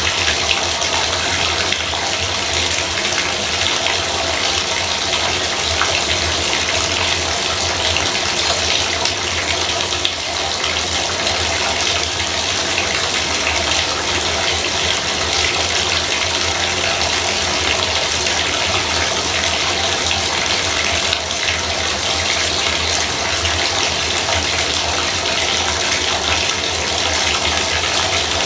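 Bathtub faucet running steadily, water pouring in a continuous even rush.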